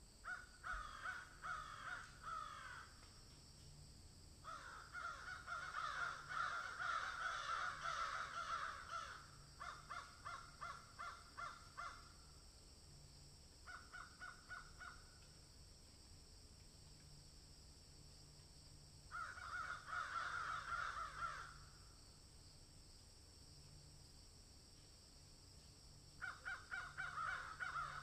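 Birds calling in bouts of quick repeated notes, about six bouts a few seconds apart, the longest lasting several seconds.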